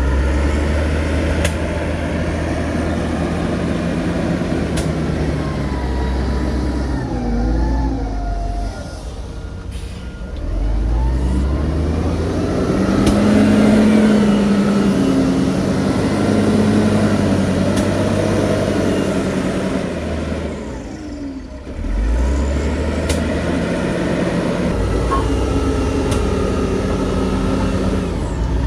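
Heavy diesel engines of earthmoving machinery working under load, revving up and down. A rise in engine pitch comes around the middle, with a few sharp metallic clanks and a short lull about three quarters of the way through.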